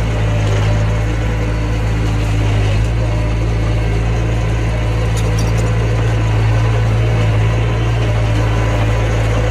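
Mini bulldozer's diesel engine running steadily at an even pitch, with a few faint clicks about five seconds in.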